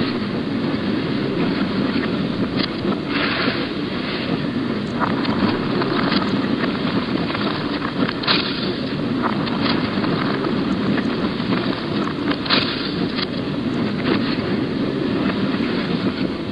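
Steady rumble of a moving narrow-gauge train, with irregular sharp clicks and knocks from wheels and rail joints.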